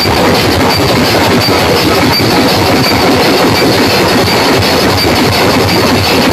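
A large home loudspeaker system playing loud, dense, rumbling audio with no clear beat, steady throughout.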